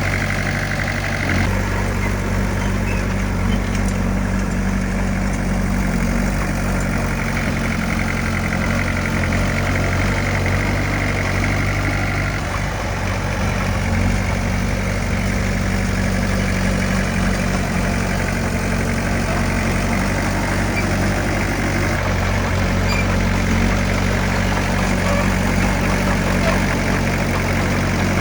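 Diesel engine of heavy earthmoving equipment running steadily, with a low, even note that shifts slightly a few times.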